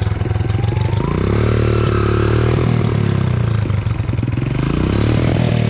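Motorcycle engine running and being revved: its pitch rises about a second in, falls off, then climbs again near the end.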